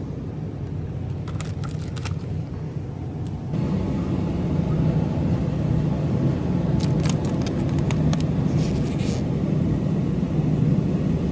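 Steady low rumble with a hum, stepping louder about three and a half seconds in, with a few scattered short clicks.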